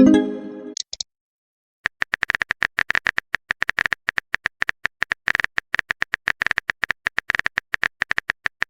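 Chat-app sound effects: a short pitched message chime right at the start, then after a brief pause a long run of rapid, irregular keyboard-typing clicks.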